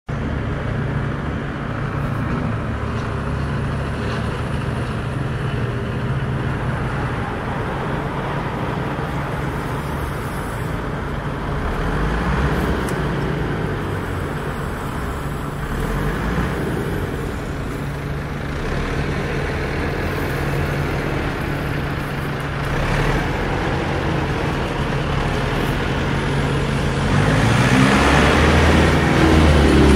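Steady motor-vehicle engine and road noise with a low hum, swelling louder near the end as a pitch glide rises and falls.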